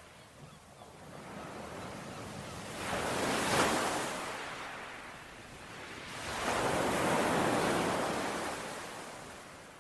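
Ocean waves washing onto a shore: two surges, the first building to a peak about three and a half seconds in, the second a longer swell around seven seconds in that slowly draws back.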